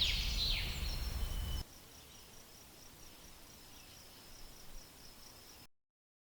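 A bird chirping and trilling, cut off after about a second and a half. A faint, steady, high insect trill follows, and then the sound stops abruptly near the end.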